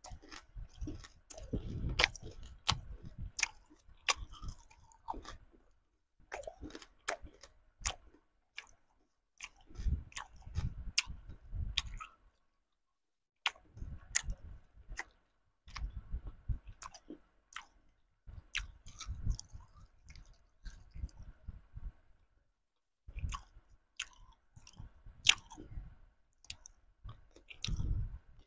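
A person chewing close to the microphone, with crisp crunching clicks, in bouts broken by short pauses.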